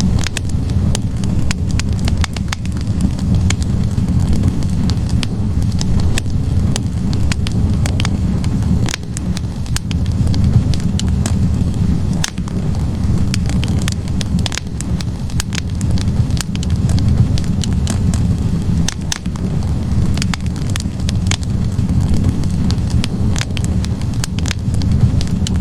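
Wood fire burning in a fireplace: a steady low rush of flames with frequent, irregular crackles and pops from the burning logs.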